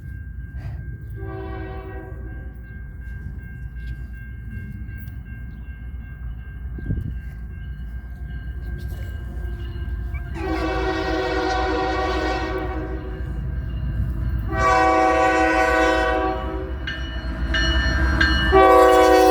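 Horn of an approaching pair of CN ES44AC locomotives running light: a faint brief blast about a second in, then two long blasts about ten and fourteen seconds in, and a louder blast near the end as the engines come closer. A steady low rumble of the approaching locomotives lies underneath.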